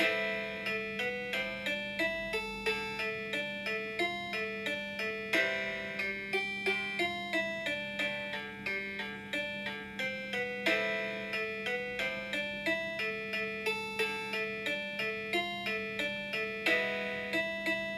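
A MIDI ringtone melody played on a Nokia button phone: a synthesized tune of short, plucked-sounding notes, a few each second, over a steady low hum.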